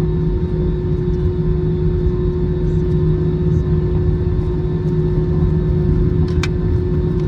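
Steady low cabin rumble and hum of an Airbus A321 taxiing with its CFM56 engines at idle. One short click about six and a half seconds in.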